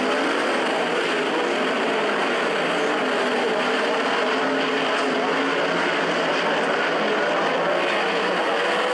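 A field of 360 sprint cars' V8 engines running together on a dirt oval. Many overlapping engine notes waver up and down in pitch at a steady, loud level.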